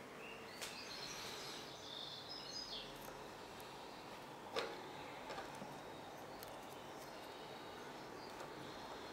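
Faint steady background hiss with birds chirping high in the first three seconds, and one sharp click about four and a half seconds in.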